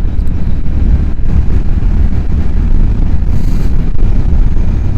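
Motorcycle riding at speed: heavy wind rumble on the microphone with the bike's engine running underneath, steady and loud.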